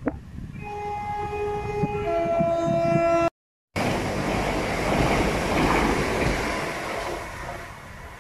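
Southern passenger train sounding its two-tone horn, a higher note and then a lower note, as it approaches. After a brief dropout in the audio, the train rushes past close by with a loud rumble of wheels and air that fades near the end.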